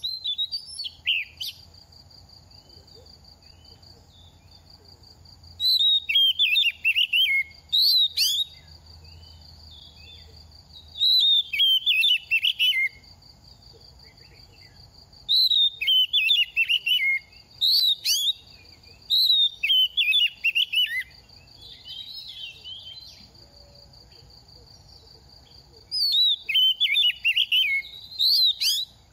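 Oriental magpie-robin singing in separate bursts of fast, varied whistled phrases with sharp upward flicks, about six bursts a few seconds apart. A steady high-pitched drone runs beneath the song.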